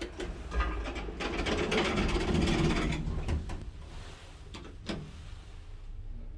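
Old Hitachi passenger elevator in operation: a stretch of mechanical clattering and rumbling lasting about three seconds, then two sharp clicks about four and a half seconds in.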